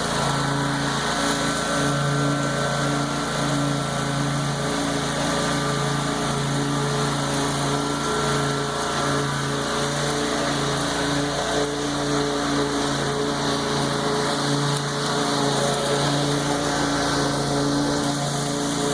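Lawn mower engine running steadily while mowing tall grass.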